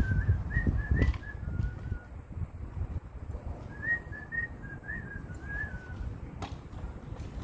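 A bird chirping: two short runs of small high chirps a few seconds apart, over a low rumbling background.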